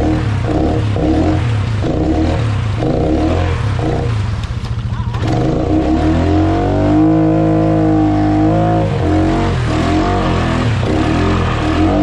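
ATV engine revving hard in deep mud: the throttle is worked in quick pulses for the first few seconds, then, after a brief drop, the engine climbs and is held at high revs for a couple of seconds before easing off, the sound of a stuck quad trying to spin its way out.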